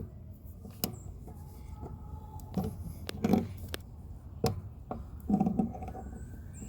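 Knocks and sharp clicks at irregular intervals from PVC pipe fittings and hand tools being handled and tightened, with heavier knocks around the middle and a double knock near the end.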